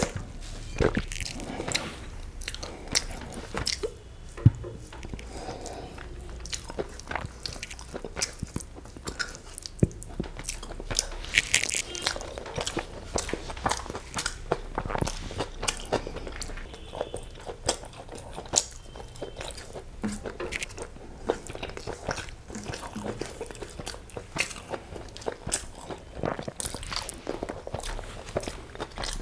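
Close-miked chewing and biting of a mouthful of egg biryani and chicken curry eaten by hand: many small wet clicks and crunches.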